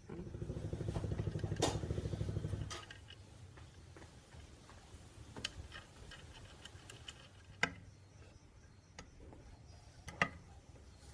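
A rapid mechanical rattle lasting about three seconds, then a few sharp metallic clicks spread out over the rest.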